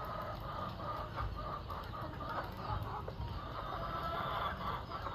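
A flock of chickens clucking at feeding time, many short overlapping calls.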